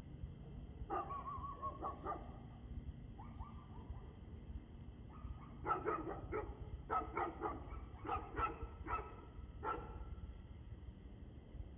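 A dog barking: a drawn-out, wavering whine-like call about a second in, then a quick run of about ten short barks in the middle of the stretch.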